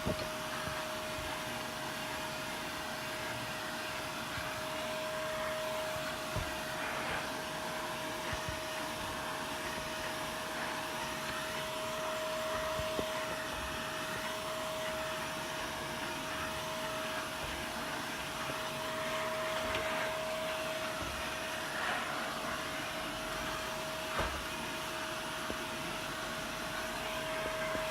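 Shark vacuum cleaner running steadily with a hose attachment, a constant motor whine over rushing air, sucking dust out of the furnace filter compartment. A few light knocks of the attachment against the housing.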